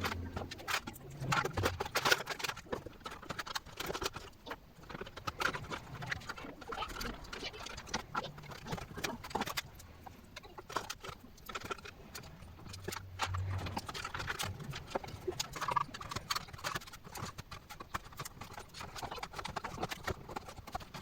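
Irregular clicks and knocks from desktop PC parts being handled.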